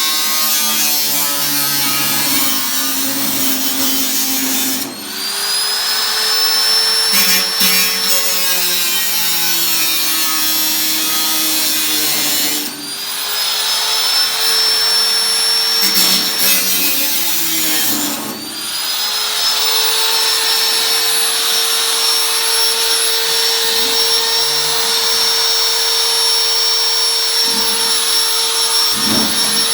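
Handheld electric power tool running with a steady high whine, its motor briefly easing off and spinning back up in pitch three times.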